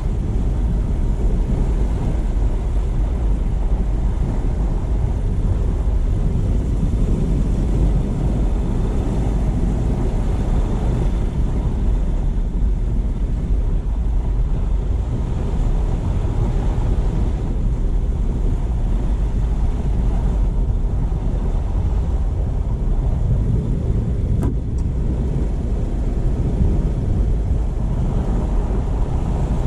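Steady low rumble of road and tyre noise from a car driving, with no gaps. A single brief click sounds about three-quarters of the way through.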